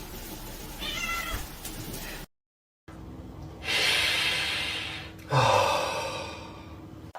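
A cat meows once, briefly, about a second in. After a short cut to silence come two longer, louder, rough cat calls, one after the other.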